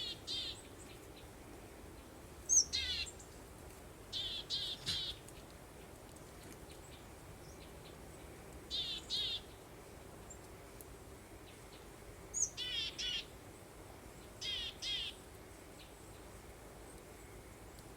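Songbird chirping in short phrases of quick repeated high notes, a phrase every few seconds, over a faint steady breeze.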